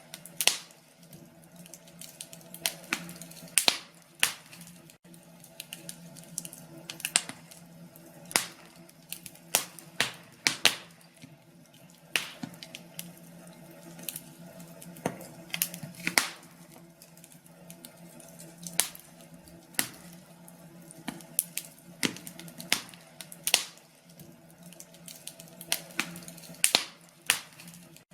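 Wood fire crackling, with irregular sharp pops and snaps over a faint steady hum.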